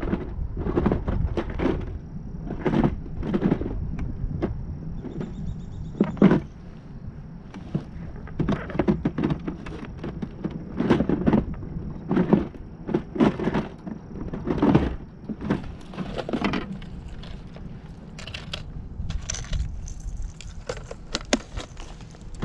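Irregular knocks, clicks and rattles of fishing tackle being handled on a kayak while a lure is swapped.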